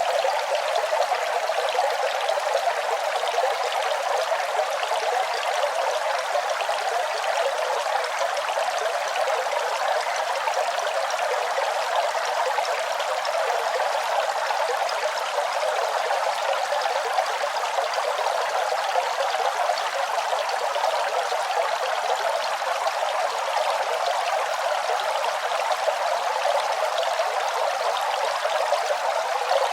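Running water, a steady, unbroken flow.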